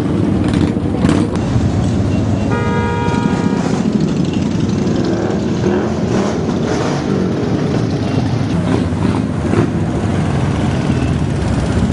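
Many motorcycle engines running together in a steady rumble, with a vehicle horn sounding for about a second a couple of seconds in.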